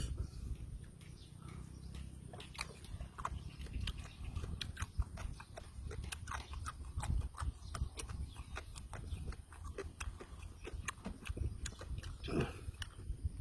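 Close-miked chewing of raw fish and papaya salad: irregular wet smacking and clicking mouth sounds over a low rumble, with a longer, louder mouth sound near the end.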